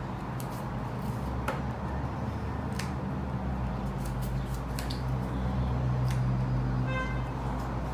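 Playing cards being handled on a table: scattered light clicks and taps over a steady low hum. A brief high beep comes about seven seconds in.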